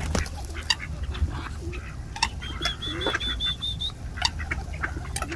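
Ducks quacking in short, scattered calls, with a rapid string of high chirps from another bird about halfway through, over a steady low rumble.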